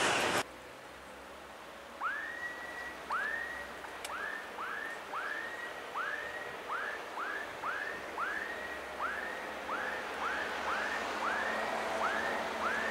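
The loud noise of a passing train cuts off abruptly. Then comes a long series of short whistled calls, each sliding quickly up and holding a steady pitch, repeated at uneven gaps of about half a second to a second: a bird calling.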